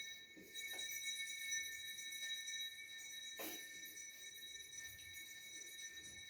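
Dough being cut into bread portions on a board, with a few soft knocks, the clearest about three and a half seconds in, under a faint steady high-pitched ringing tone.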